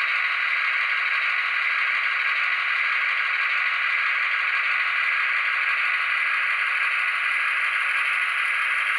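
Soundtraxx Tsunami decoder's EMD 645 non-turbo diesel sound playing through an HO-scale locomotive's small speaker: a steady, tinny rattle with no deep rumble, as the model runs at low speed.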